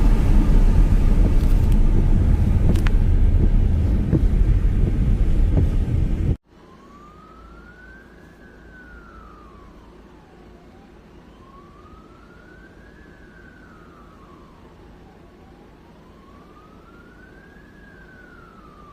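Loud rushing storm noise, heavy in the low end like wind buffeting the microphone, for about six seconds. It cuts off abruptly to a quieter scene in which an emergency vehicle siren wails slowly, rising and falling about three times, each cycle lasting about four to five seconds.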